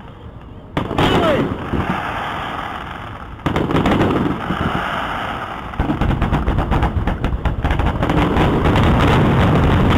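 Aerial fireworks shells bursting: one bang about a second in, another at about three and a half seconds, then from about six seconds a dense, rapid, continuous barrage of bursts and crackle, typical of a display's finale.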